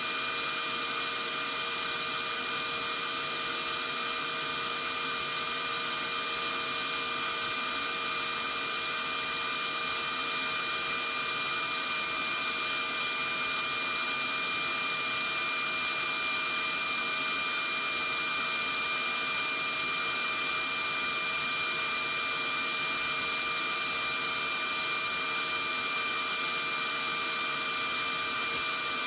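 Vacuum cleaner motor running steadily: an even rushing hiss with a constant high whine, unchanging throughout, played as white noise to lull a baby to sleep.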